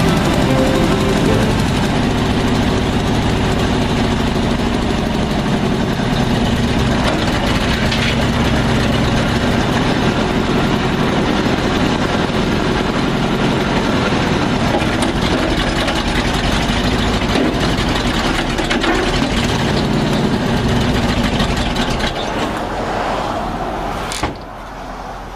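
An old truck's engine running steadily, then dropping away about 22 seconds in, with a sharp knock shortly before the end.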